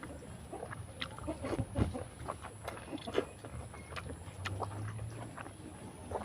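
Chewing and lip-smacking of someone eating pork with bamboo shoots: irregular wet clicks and smacks, a few a second.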